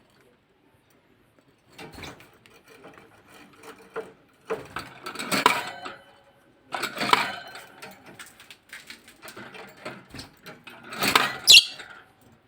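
Forpus parrotlets making irregular clicking, scratching and rattling noises in bursts, with one short rising high chirp near the end.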